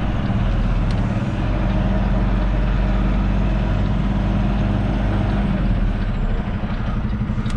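Semi truck's diesel engine running steadily at low revs while the tractor-trailer is backed slowly into a loading dock.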